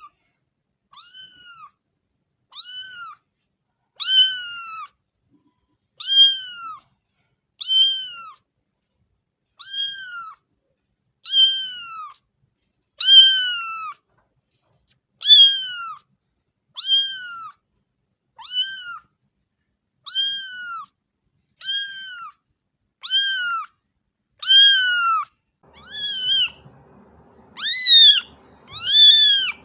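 A cat meowing over and over, about one meow every second and a half. Each call rises and then falls in pitch. Near the end the meows grow louder and longer, with a faint low rumble underneath.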